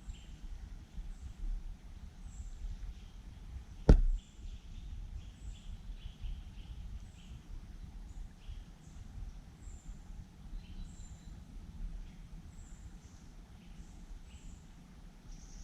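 Small birds chirping in woodland, short high calls repeating every half second or so, over a low rumble of wind on the microphone. A single sharp knock about four seconds in is the loudest sound.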